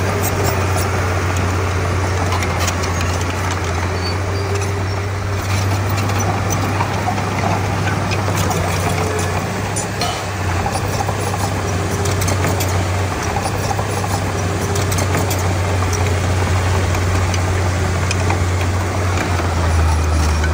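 Diesel engine of a Komatsu D31P bulldozer running steadily, a deep continuous drone, with scattered light clicks over it.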